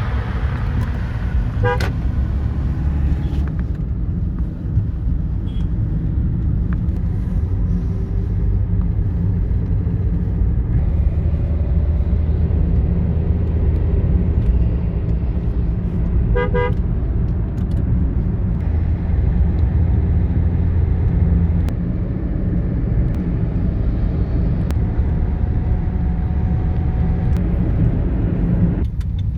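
Motor vehicles running with a steady low rumble, and a car horn giving short beeps about two seconds in and again a little past the middle.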